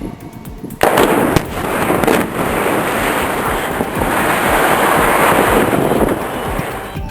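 Explosive demolition going off: a sudden loud blast about a second in, a couple more sharp reports, then several seconds of dense noise from the charges and the falling structure, easing off near the end.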